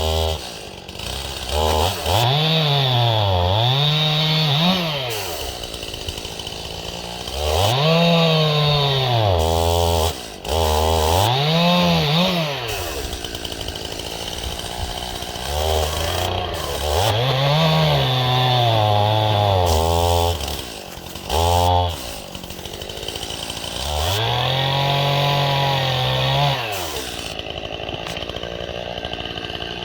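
Stihl chainsaw bucking a dead ash log: revved up into the wood several times, its pitch sagging under load and falling back to idle between cuts.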